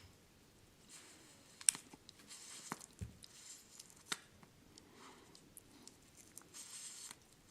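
Faint handling noise from a homemade cigarette being tried: a few sharp clicks and several brief, soft hisses.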